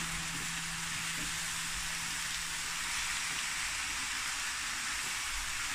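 Chicken fajita mix of chicken strips, peppers, onions and mushrooms frying in a hot pan with a steady sizzle, stirred with a wooden spatula.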